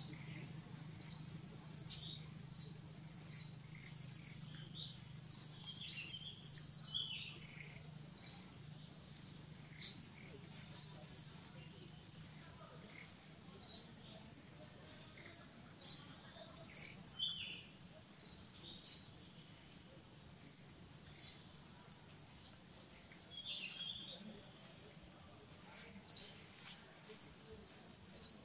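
Birds chirping in the trees: short high-pitched chirps repeating every second or two, with a few other scattered calls among them.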